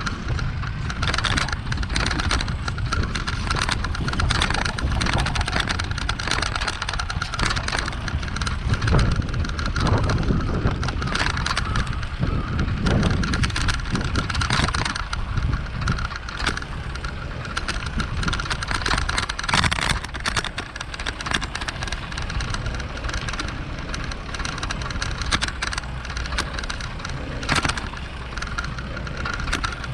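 Bicycle riding through city streets, heard from a mounted action camera: a steady rumble of rolling and wind noise with scattered rattles and clicks.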